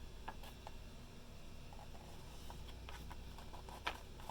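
Quiet room tone with a few faint, scattered clicks and a slightly sharper click near the end, typical of a picture book's pages being handled between read-aloud lines.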